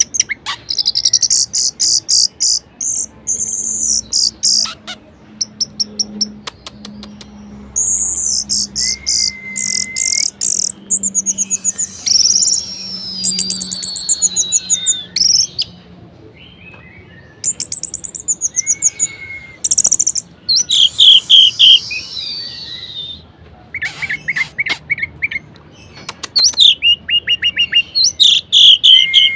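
Orange-headed thrush (anis merah) singing a loud, varied song: phrases of rapid chattering trills and high chirps with brief pauses between them, mixed with a few downward-gliding whistles and short level whistles.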